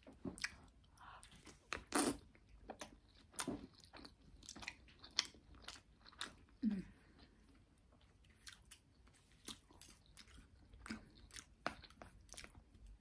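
A person chewing a mouthful of lo mein noodles: wet chewing with irregular smacks and clicks of the mouth.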